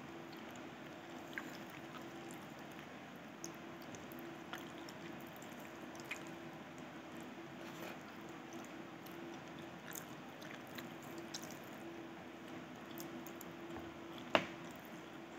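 Close-up eating sounds: a mouthful of rice and stewed chicken being chewed, with small scattered clicks from wooden chopsticks and one sharper click near the end. A faint steady hum runs underneath.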